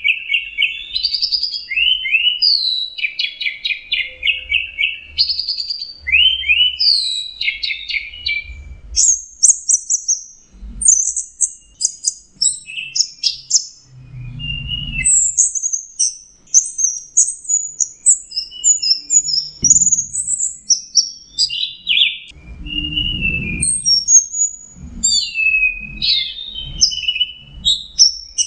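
Orange-headed thrush (anis merah) singing a continuous, varied song of fast trills, rattling phrases and high chirps in the relaxed, absorbed 'teler' singing state.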